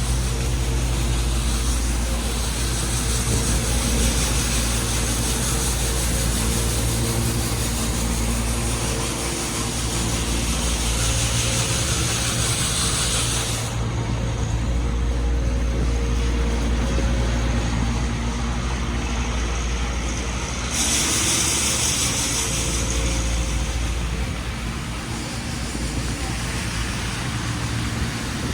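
City street traffic: vehicle engines running with a low rumble and a steady hiss, which drops away for several seconds midway and then comes back.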